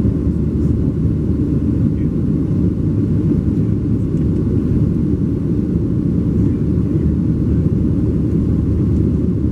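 Steady low rumble of a Boeing 737-700's CFM56 jet engines and airflow, heard inside the cabin from a window seat while the airliner is under takeoff or climb power.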